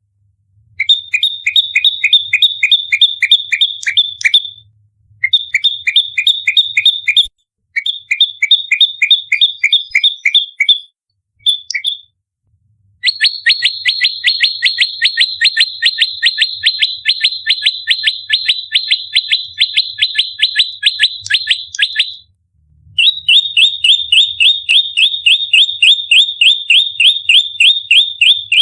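Prenjak lumut singing its fighting call: rapid, tightly spaced sharp chirps, several a second, in long runs broken by brief pauses, the longest run lasting about nine seconds.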